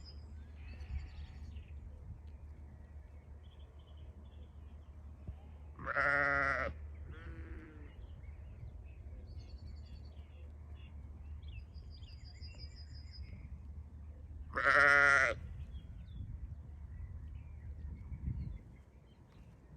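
Sheep bleating: two loud single bleats about nine seconds apart, with a fainter bleat just after the first.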